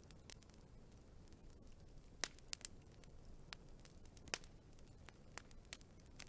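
Wood fire crackling: irregular sharp pops and snaps over a faint low hiss, the loudest pops about two and four seconds in.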